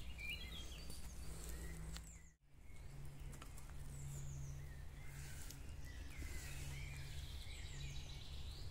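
Wild birds chirping and calling in short, quickly rising and falling notes over a steady low hum, with a brief dropout about two and a half seconds in.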